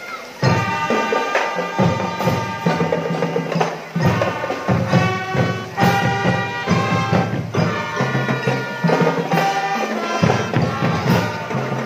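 Marching drum band playing: a steady beat on drums and other percussion under a melody on pitched instruments. It starts up about half a second in after a brief lull.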